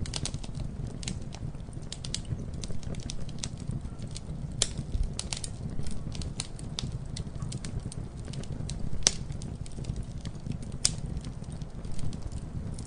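Wood fire crackling: irregular sharp pops and snaps over a steady low rumble of the burning fire, with a louder pop about a third of the way in and another about two-thirds in.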